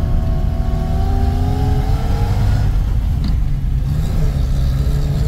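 Old Moskvich engine pulling the car along in gear, heard from inside the cabin. Its pitch rises steadily over the first couple of seconds, then eases off, and a short click comes about three seconds in.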